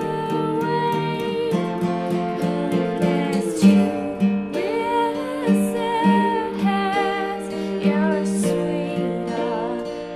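A band playing live: a singing voice over plucked or strummed guitar accompaniment.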